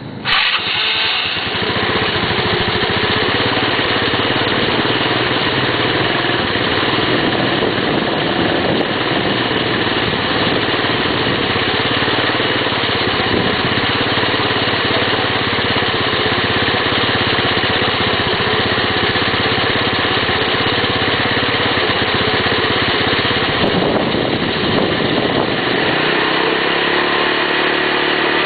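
Kymco G4 scooter engine catching at the start and running, with an abnormal noise from around the CVT drive (transmission). Near the end, the running note drops and settles into a steadier, lower note.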